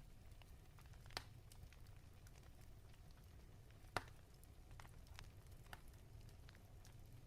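Faint crackling of a fire in a fireplace. Scattered small pops sit over a low rumble, with two sharper snaps, one about a second in and one about four seconds in.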